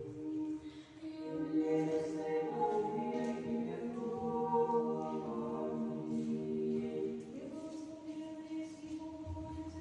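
A women's choir of nuns singing Orthodox liturgical chant unaccompanied, in several parts, holding chords that shift step by step. About three-quarters through it settles onto a quieter held chord.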